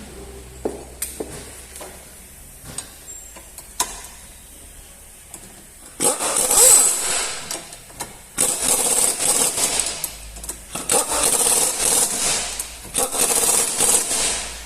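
Several light metal clicks and taps, then a power tool running in four bursts of about two seconds each, starting about six seconds in.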